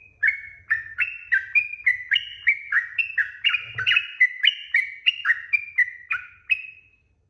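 Yellow-vented bulbul (trucukan) singing a long, fast run of bubbly whistled notes, about three a second, jumping between higher and lower pitches. The song stops shortly before the end.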